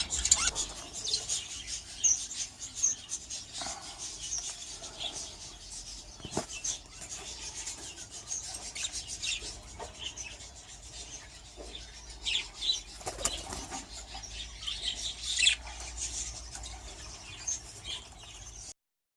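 Budgies chirping and fluttering their wings, with many short high chirps and a few sharp clicks; the sound cuts off abruptly near the end.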